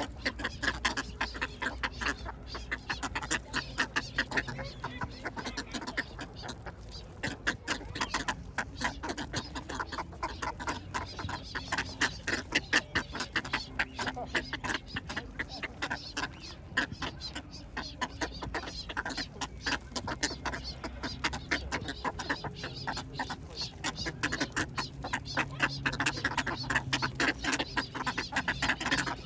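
A group of ducks quacking continuously in rapid, overlapping calls, over a low steady rumble.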